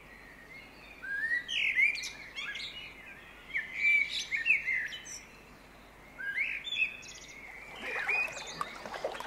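Wild birds calling in bouts of quick chirps and short whistled phrases that slide up and down in pitch. The bouts come about a second in, around four seconds in, near six to seven seconds, and again near the end.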